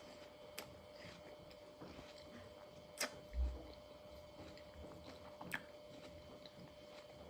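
Faint sounds of watermelon being bitten and chewed: a few soft, sharp clicks and one low thump, over a steady faint hum.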